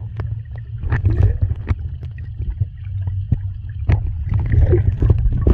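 A steady low rumble of wind buffeting the microphone, broken by frequent irregular knocks and thumps.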